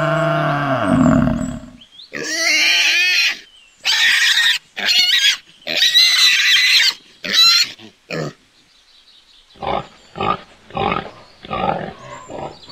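A water buffalo lows briefly at the start. Then a pig squeals loudly about five times in a row. After a short pause, a wild boar grunts about six times in short, separate grunts.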